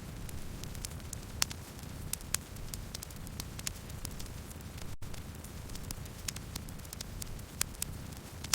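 Campfire burning, with irregular sharp crackles and pops over a steady low rumble of the flames. The sound drops out for an instant about five seconds in.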